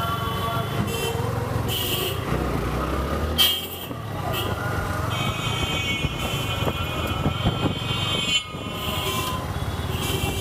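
Road traffic heard while riding: a steady engine and road rumble with repeated vehicle horn honks, one long blast in the middle.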